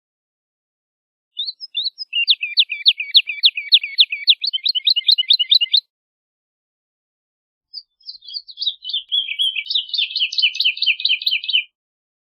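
Woodlark singing: two phrases of about four seconds each, each a fast run of repeated, falling notes, separated by a pause of about two seconds.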